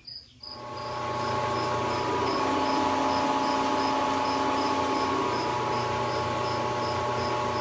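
Electric angle grinder running under load, cutting off steel welds. It spins up about half a second in, then holds a steady whine with a grinding hiss.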